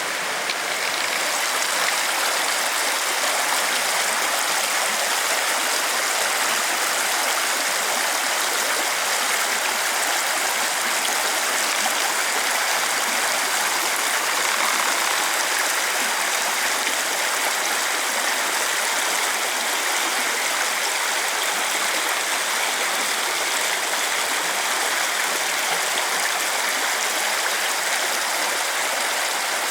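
Steady rushing of a mountain stream and waterfall, an even wash of water noise with no breaks.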